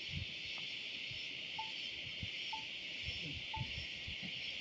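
A steady, high-pitched drone of a dense insect chorus in forest, with three short piping notes about a second apart in the middle and a few soft low thumps.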